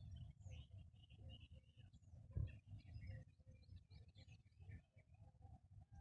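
Near silence: faint, scattered bird chirps and twitters over a low, uneven rumble, with one soft thump about two and a half seconds in.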